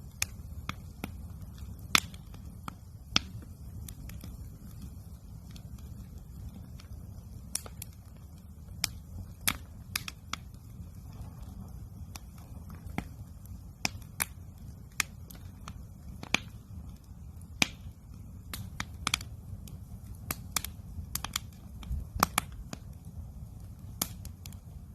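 Wood campfire crackling: irregular sharp pops and snaps, a few to several every few seconds, over a steady low rumble.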